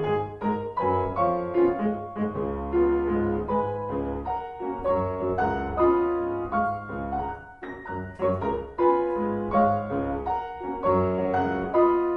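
Solo piano music playing: a classical piece with rhythmic chords over a pulsing bass line.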